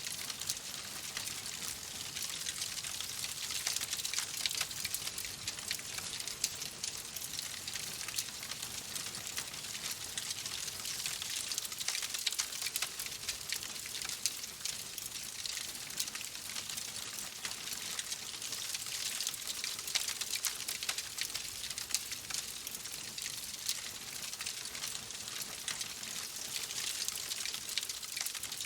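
Wood fire crackling in a fireplace: a steady hiss dotted with many small, sharp pops and snaps.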